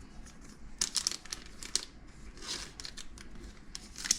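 Trading cards and their plastic packaging being handled, a few short crinkling rustles about a second in, again mid-way and near the end.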